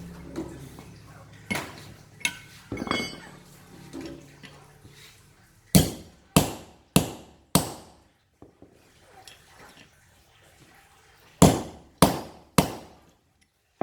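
Hammer blows on steel, driving a pin on the machine's cutting blades: a few lighter taps, then four hard ringing strikes about half a second apart, a pause, and three more.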